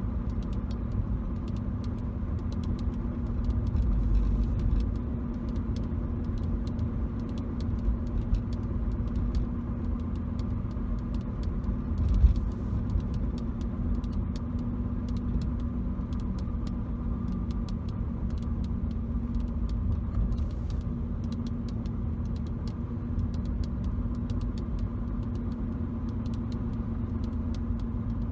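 Steady car road and engine rumble heard from inside the cabin while driving, with faint scattered clicks and brief bumps about 4 and 12 seconds in.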